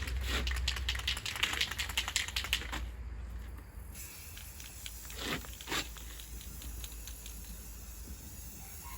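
Aerosol spray paint can being shaken, its mixing ball rattling in quick clicks for about three seconds, then two short bursts a little past halfway.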